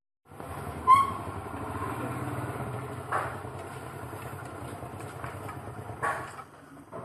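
A small motor running steadily with a low pulsing hum, with a sharp metallic ping about a second in and a couple of softer knocks later.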